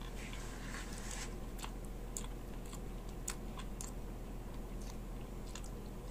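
A person chewing fried beef shank meat close to the microphone, with a scatter of irregular sharp mouth clicks. A steady low hum lies underneath.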